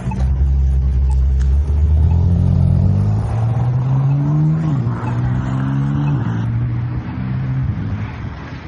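A car engine accelerating hard. Its pitch climbs, drops at a gear change about four and a half seconds in, climbs again, and drops once more about six seconds in before easing off near the end.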